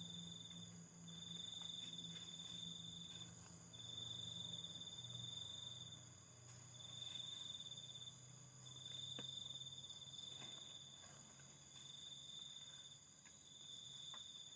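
An insect, likely a cricket, trilling faintly and steadily in phrases of one to two seconds separated by short pauses.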